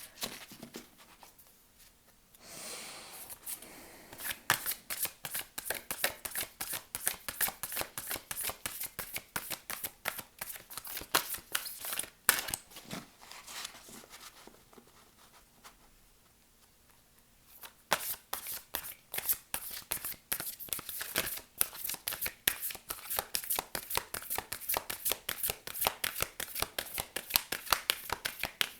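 Oracle cards being shuffled by hand: long runs of rapid, crisp card-against-card clicks, with two short pauses between runs.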